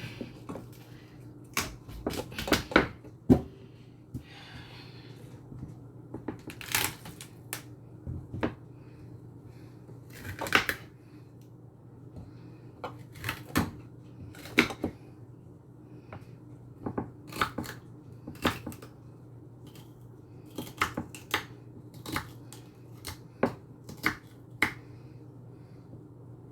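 Knife chopping celery on a cutting board: sharp, irregular chops, about one or two a second, over a low steady hum.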